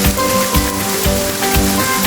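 Steady rain falling, mixed with music: held melodic notes over a regular beat of low thumps about three times a second.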